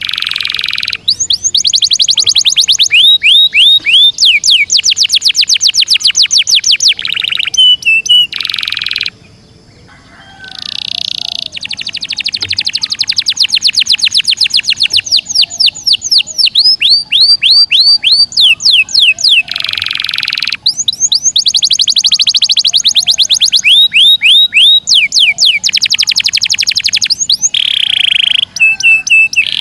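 Domestic canary singing long rolling trills of rapidly repeated high notes, each run lasting several seconds, with short buzzy notes between them and a brief pause about nine seconds in.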